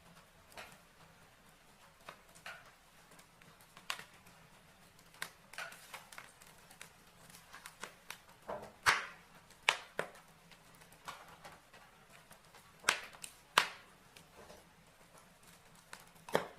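Burning logs in a fireplace crackling: irregular sharp pops and snaps over a faint hiss, with several louder pops about halfway through and again near the end.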